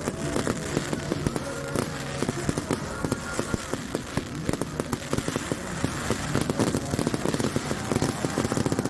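Fireworks crackling: a dense run of many rapid small pops.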